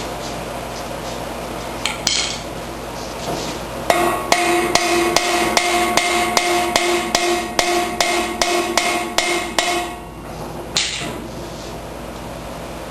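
A hammer striking metal in a steady run of blows, about four a second for nearly six seconds, the struck part ringing with a sustained tone. A single knock comes a couple of seconds before the run and another just after it.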